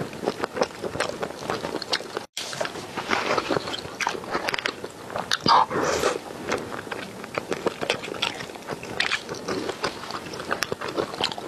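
Close-miked chewing and biting: irregular wet mouth smacks and soft crunches of food being chewed, broken by a brief gap about two seconds in.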